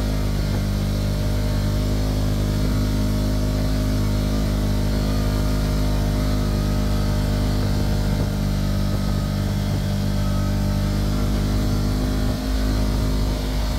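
Kawasaki Teryx KRX 1000 side-by-side engine running at a steady pace while driving, an even drone with no revving, over a haze of wind and tyre noise.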